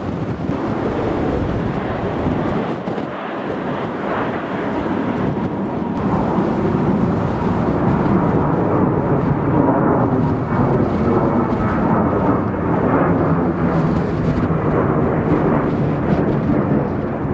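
Jet airliner engines running at high power: a loud, steady rumble that grows a little louder about six seconds in.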